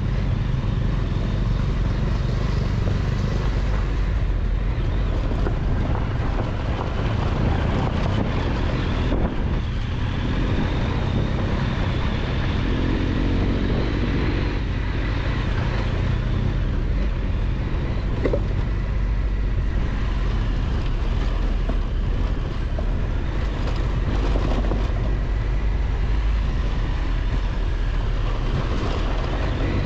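Triumph Tiger 1200 XCX's three-cylinder engine running steadily under a rider on a dirt road, with the rush of air and tyre noise of riding mixed in.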